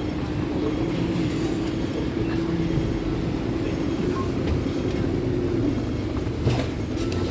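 Hong Kong double-decker tram running, heard from aboard: a steady rumble of the car on its rails with a sustained motor hum that shifts slightly in pitch and eases a little after about five seconds.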